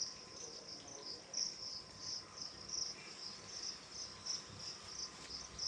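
Crickets chirping in a steady high-pitched rhythm, about three chirps a second.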